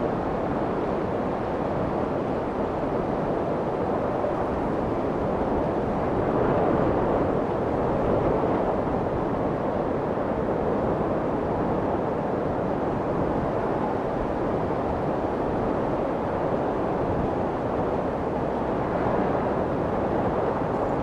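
Steady white noise for soothing a baby, meant to imitate the sound of the womb. It is a low, muffled rush with little treble and gentle slow swells in loudness.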